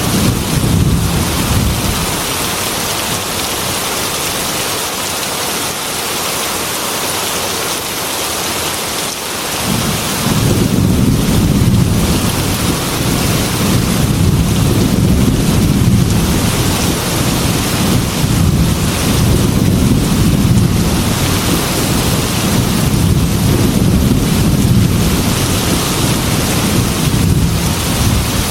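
Heavy rain falling steadily with rolling thunder. A low rumble fades in the first couple of seconds, then a long rumble of thunder builds about ten seconds in and keeps rolling under the rain.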